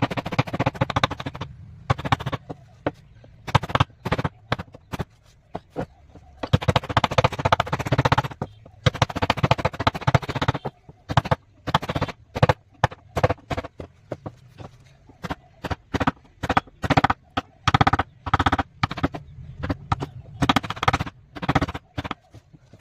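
Woodcarving tools striking wood: repeated sharp knocks at an uneven pace, some in quick runs of several a second, with a few denser stretches of noise between them.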